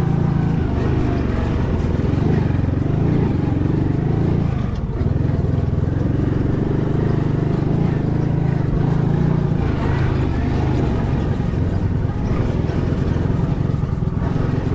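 Vehicle engine running steadily under load while driving, with a brief drop in engine sound about five seconds in.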